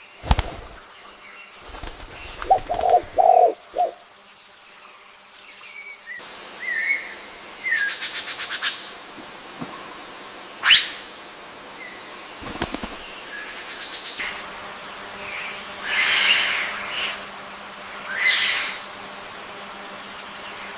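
Assorted birds calling. A few short low calls come about two to four seconds in, then chirps and a quick trill over a high steady tone, with two louder, harsher calls near the end.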